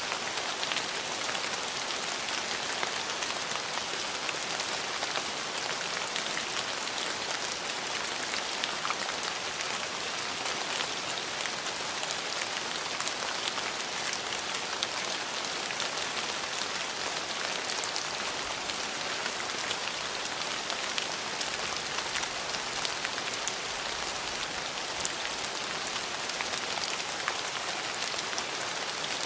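Steady rain falling, a dense even hiss with many fine drops ticking on a hard surface.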